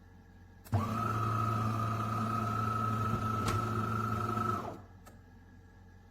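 A small electric motor runs with a steady hum for about four seconds, starting suddenly and then stopping, with a single click partway through.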